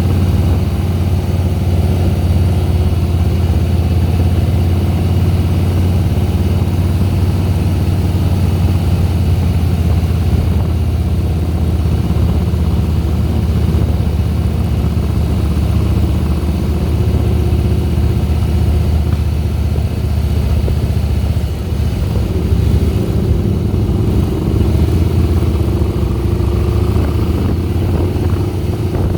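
Harley-Davidson Softail Deluxe's Twin Cam 96 V-twin engine running steadily under way, with a brief dip in level about three-quarters of the way through and a rise in pitch near the end.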